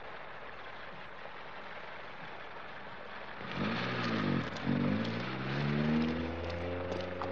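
Car engine revving about three and a half seconds in, its pitch dipping and rising twice, then climbing steadily as the car pulls away. Under it is a steady hiss of rain.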